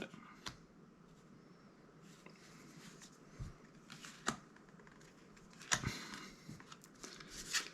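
Faint handling of Magic: The Gathering trading cards: soft clicks and brief card-on-card slides, with a few sharper flicks about four, six and seven and a half seconds in.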